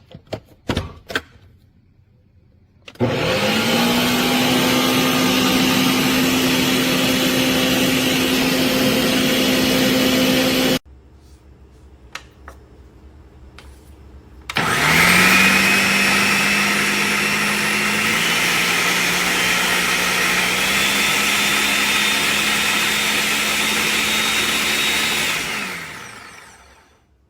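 Ninja NJ601AMZ 1000-watt countertop blender running twice: a few knocks, then a steady run of about eight seconds that cuts off suddenly, and after a short pause a second run of about eleven seconds whose pitch steps down and back up before it winds down.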